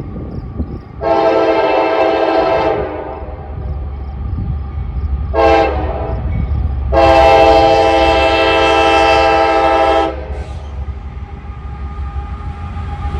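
Diesel locomotive air horn sounding a long blast, a short blast, then a longer blast, each a chord of several tones, as for a grade crossing. Under the horn runs the low rumble of the train, growing louder near the end.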